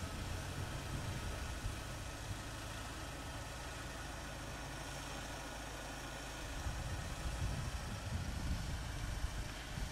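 Game-drive vehicle's engine idling steadily while stopped, a low, even hum, with some uneven low rumbling near the end.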